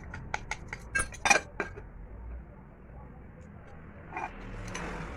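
Metal pressure cooker and its parts clinking and knocking as they are handled: a quick run of sharp clicks in the first two seconds, then a short scraping sound near the end.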